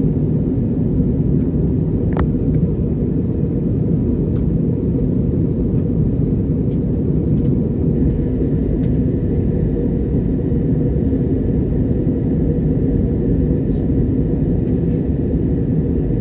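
Steady cabin noise of an Airbus A321neo in climb: the rumble of engines and airflow, with a faint high tone over it.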